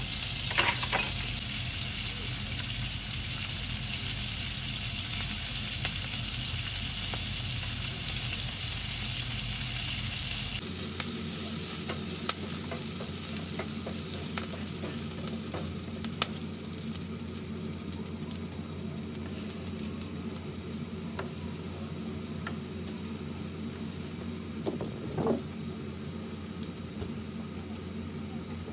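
Stem broccoli sizzling in oil in a nonstick frying pan, a steady hiss, with a few sharp knocks as a spatula stirs it.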